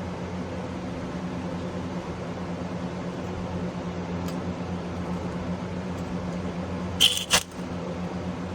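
A steady mechanical hum, with two sharp clicks close together about seven seconds in.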